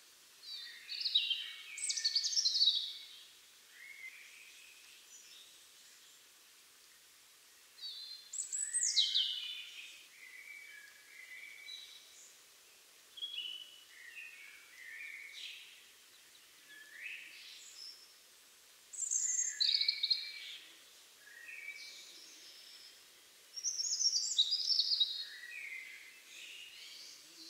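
European robin singing: about five short phrases of high, quickly varying warbled notes, each a second or two long, with pauses of a few seconds between them.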